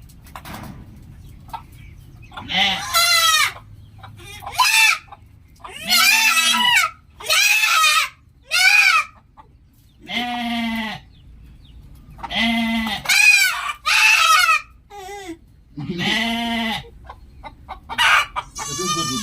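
Goats bleating, about ten separate calls in a row, some low and some higher-pitched, with short gaps between them.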